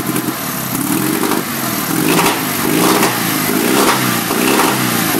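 Steyr-Puch 750 air-cooled flat-twin engine running, its speed rising and falling several times, loudest around the middle. It is a freshly built engine on its first run.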